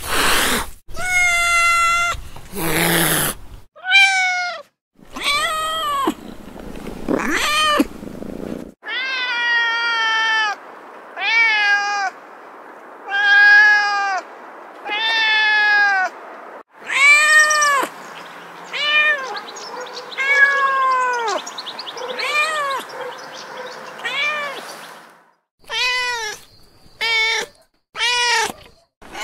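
A cat meowing over and over, roughly one call a second, each call rising and then falling in pitch, some short and some drawn out.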